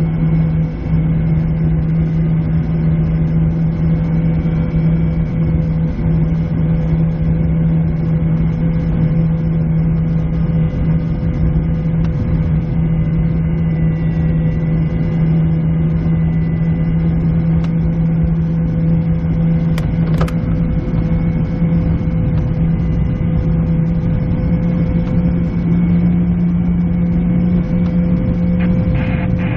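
Steady rush of airflow over a PW-5 sailplane's cockpit and canopy on the landing approach, with a constant low hum under it. There is one sharp click about twenty seconds in.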